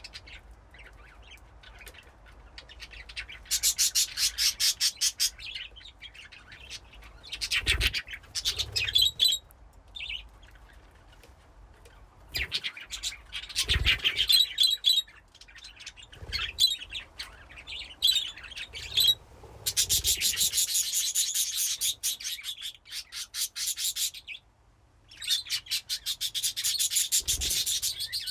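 Budgies chirping and chattering in fast, grating runs of short high notes. The runs come in bursts of a few seconds each, with short pauses between.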